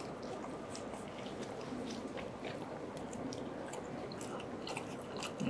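Two people chewing and eating close to the microphone: soft, irregular wet mouth clicks and smacks as they eat baked pasta and a pizza paratha.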